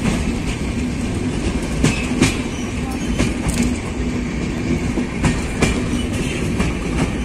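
Antyodaya Express passenger train running at speed, heard from inside the coach: a steady rumble with a low hum and irregular sharp clacks of wheels over rail joints.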